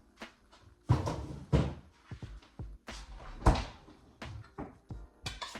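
A few knocks and thumps of a bowl being handled and put away in the refrigerator, the loudest about a second in and at about three and a half seconds. Faint music plays in the background.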